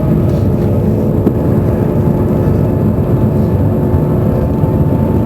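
Cabin noise inside the Shanghai Transrapid maglev train accelerating at about 230 km/h: a loud, steady low rumble with a faint steady hum.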